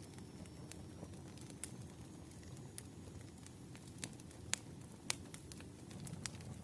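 Firewood burning, crackling with irregular sharp pops over a steady low rush of flame; two louder pops come about four and a half and five seconds in.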